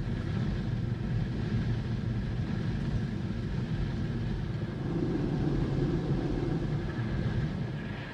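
Automatic car wash machinery running steadily, a dense low rumble with a faint high whine, heard from inside the car cabin.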